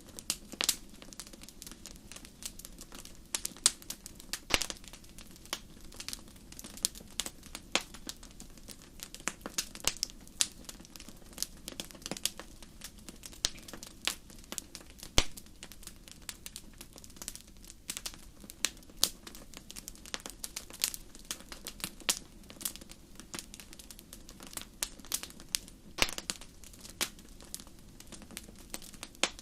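Wood campfire burning: irregular crackles and sharp pops, several a second with the odd louder snap, over a faint low steady rumble of the flames.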